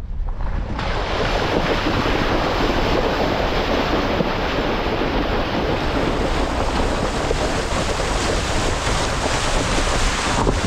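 Jeep Gladiator fording a creek: water splashing and rushing around the tyres and body. It sets in suddenly about a second in and then stays steady, over the low rumble of the vehicle.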